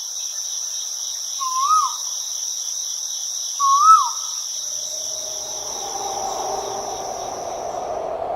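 Steady high-pitched insect chirring, with two short rising-and-falling bird-like calls about two seconds apart. About halfway through, a lower steady hum joins in.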